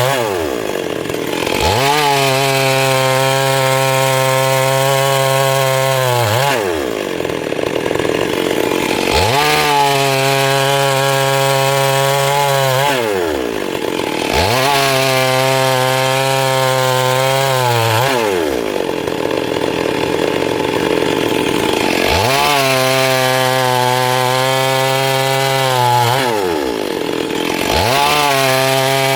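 Stihl MS382 two-stroke chainsaw cutting wood at full throttle in repeated cuts of about four seconds each, the engine dropping off and revving back up between cuts.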